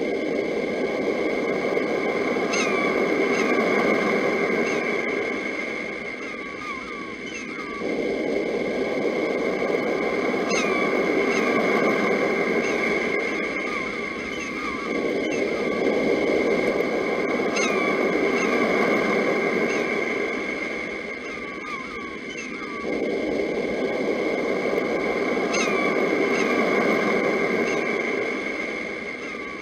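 Sea waves washing in, four swells about seven to eight seconds apart. Over them, birds chirp in short, falling, repeated calls above a steady high tone.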